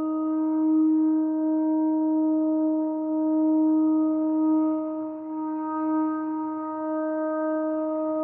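Shofar sounding one long, steady note, held without a break, its loudness swelling slightly and dipping briefly about five seconds in.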